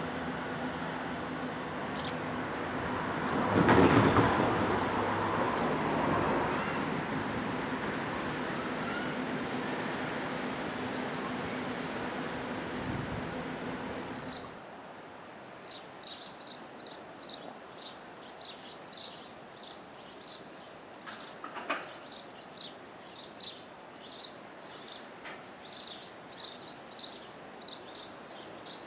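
Diesel multiple unit approaching on the line, its engine drone and rail rumble loudest about four seconds in, with birds chirping. About halfway through the train sound cuts off suddenly, leaving a quiet rural background with birds chirping repeatedly.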